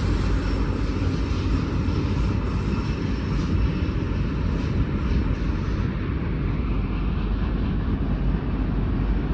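EMD SD70-series diesel locomotive working hard up a steep grade with its long freight train, giving a steady, heavy rumble.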